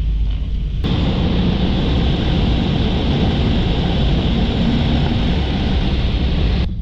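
Touch-free automatic car wash running over the car, heard from inside the cabin: a loud, steady rushing hiss that starts suddenly about a second in and cuts off near the end, over the low rumble of the idling engine.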